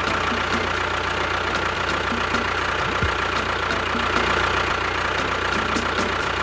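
A motor running steadily: an even, dense mechanical hum with a faint high whine over it.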